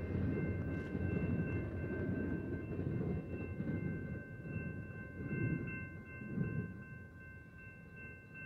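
BNSF double-stack intermodal freight train's cars rolling away: a low rumble with soft swells about once a second, fading steadily over the last couple of seconds, with a faint steady high ringing tone above it.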